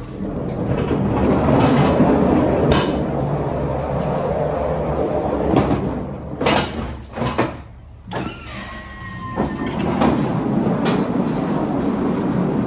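Manual pallet jack rolling a loaded pallet across a trailer floor: a steady rumble and rattle, with a few sharp knocks and a brief squeak about nine seconds in.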